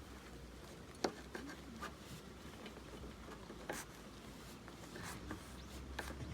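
Scattered light clicks and taps with soft rubbing, as of small objects being handled, the sharpest about a second in, over a low steady hum.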